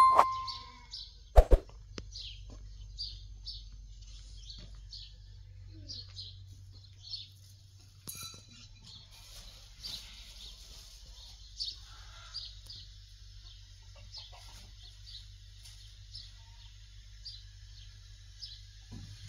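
Small birds chirping over and over in short high calls, over a faint steady low hum. A bell-like ding from the subscribe-button animation sounds at the very start, and there is a single click about a second and a half in.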